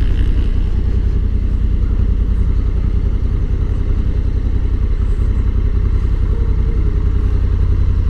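Honda Africa Twin's parallel-twin motorcycle engine running steadily at low revs.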